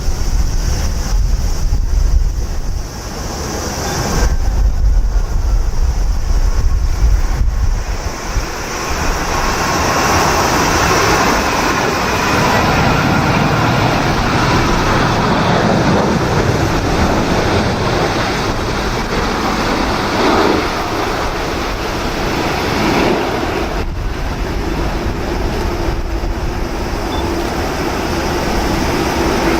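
Strong gusting wind buffeting the microphone, a heavy rumble that swells and drops for the first several seconds. From about eight seconds in it gives way to a steady, even rushing noise.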